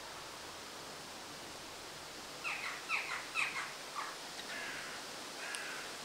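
A bird calling: a quick run of about six short, harsh notes, each falling in pitch, starting about two and a half seconds in, followed by a few longer, flatter notes near the end.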